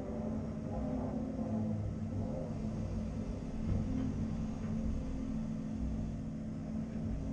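Diesel engine of a CAT 330 Next Generation excavator running steadily under work, a low rumble that rises and falls slightly.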